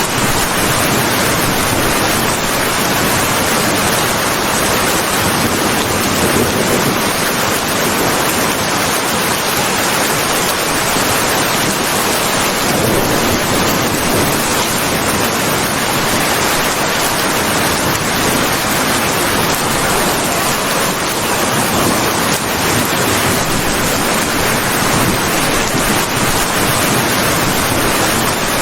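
Steady heavy rain, an even hiss of falling water with no thunder or single drops standing out.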